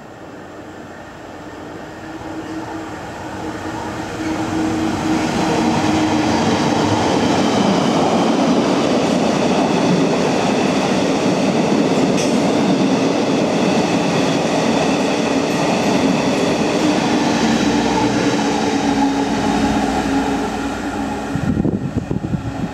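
Two Colas Rail Class 70 diesel locomotives, GE PowerHaul V16 engines, pass at speed hauling a freight train. Their engine noise builds over the first few seconds as they approach, then comes a long steady rumble and clatter of the wagons going by, which falls away near the end.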